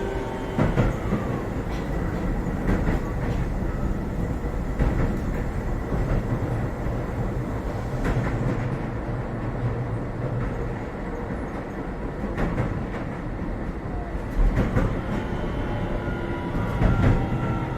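Interior running sound of a Keio 7000 series electric train: steady wheel and track rumble with occasional clunks over rail joints. The traction motors' whine glides down in pitch near the start and again near the end as the train slows on its approach to a station.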